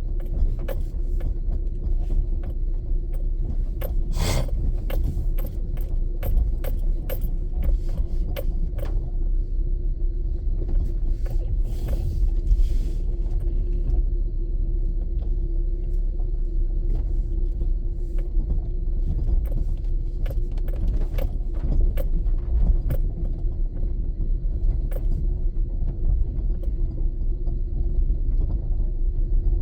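Steady low rumble of a car on the road with a constant hum. Many small ticks and knocks run through it, with a sharper knock about four seconds in.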